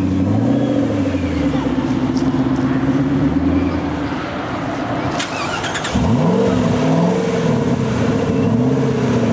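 Ford GT's supercharged V8 idling and being blipped several times, each rev rising and falling quickly back to idle.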